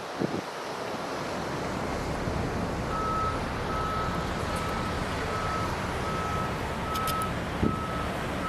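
Steady wind and low rumble. From about three seconds in, a vehicle's reversing alarm beeps at a steady pace, a little over once a second.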